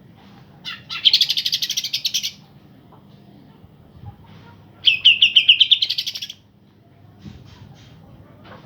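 Cucak ijo (green leafbird) song: two loud bursts of fast, rapidly repeated high notes, each a little over a second long, with softer scattered chirps between them.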